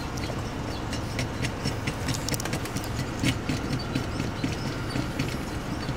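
Vehicle engine idling steadily, with scattered light clicks and knocks as the metal parts of a hand-control device are fitted to the brake and accelerator pedals.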